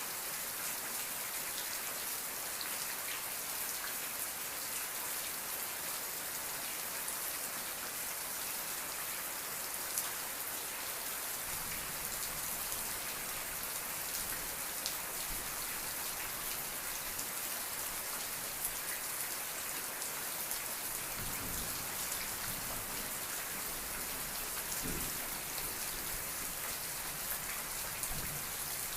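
Steady rain falling, an even hiss dense with fine drop patter. A faint low rumble comes and goes underneath in the second half.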